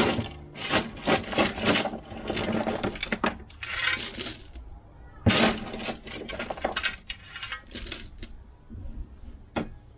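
Irregular knocks, scrapes and rattles of hard objects being handled, a dozen or so separate strikes with bursts of scraping between them; the loudest knock comes a little past halfway.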